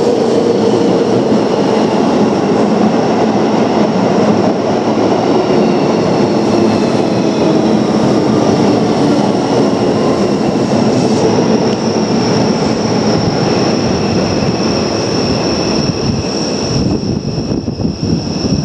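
Keio Line electric train running on the rails: loud, steady rolling noise with a thin electric whine whose pitch slowly falls over the first half, then a steady high whine near the end.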